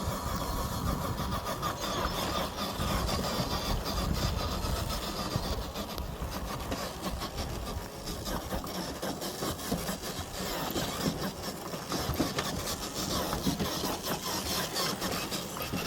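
Small electric RC crawler truck (FMS FJ40 scale model) driving over the forest floor: its motor and gears whirring, with twigs and leaf litter crackling under the tyres.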